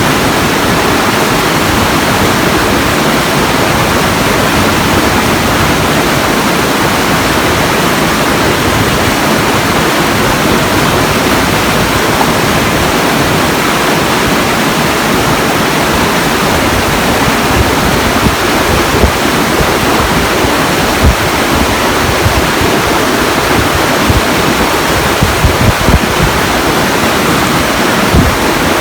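Steady, loud rushing water, like a waterfall or fast stream, with a few brief low thumps in the second half.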